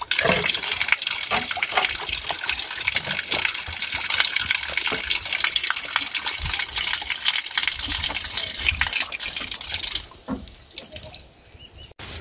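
Water gushing and splashing, a dense hiss full of small spatters, which falls away sharply about ten seconds in.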